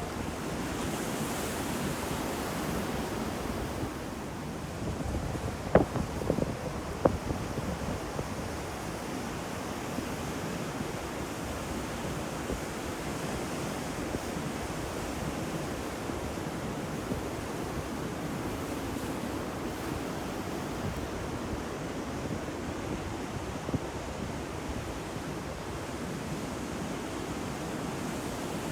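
Ocean waves breaking and washing on a shore, a steady surf with wind on the microphone. A few sharp clicks about six to seven seconds in.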